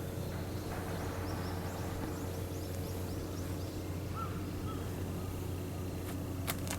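Steady low machinery hum, with faint high bird chirps in the first half and a couple of sharp clicks near the end.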